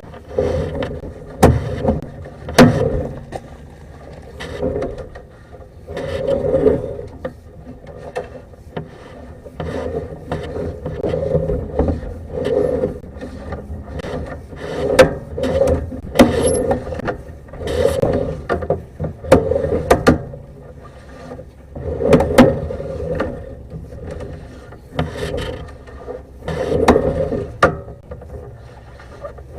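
Sewer inspection camera's push cable being fed by hand into the drain line, scraping and rattling in repeated strokes every second or two, with sharp clicks between them.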